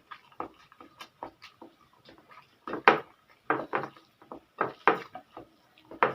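Close-up eating sounds of spicy pancit canton noodles: a run of short wet mouth clicks and chewing, with louder bursts a few times and clicks of a utensil against a dish.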